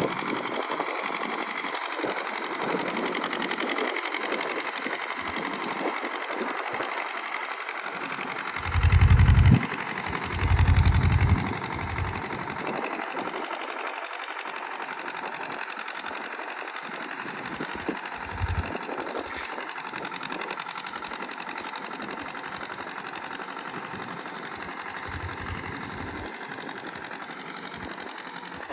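Sonalika DI 30 tractor's diesel engine running steadily with a fast mechanical clatter while pulling a cultivator. Two short, loud low rumbles break in about nine and eleven seconds in.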